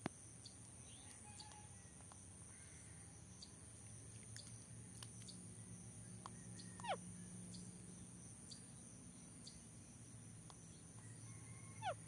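Faint rural ambience with a steady high hiss and scattered soft clicks. A bird gives two quick whistled calls that sweep down in pitch, about seven seconds in and again near the end.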